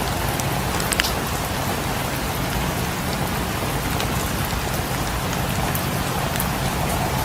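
Steady rain falling on a cabin, with the occasional sharp crackle of a wood fire; the loudest pop comes about a second in.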